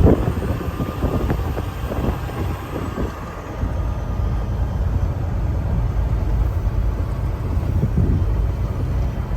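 Truck driving on a snow-covered road: a steady low rumble of engine and tyres, rougher and noisier for the first three seconds, then evening out.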